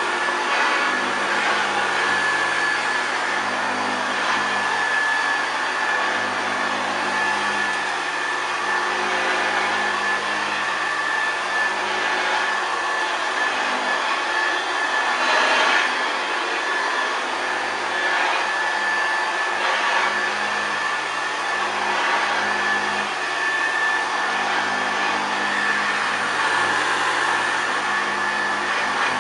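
1962 Hoover Senior 652A upright vacuum cleaner running steadily: a constant rush of air with a steady high-pitched whine held throughout.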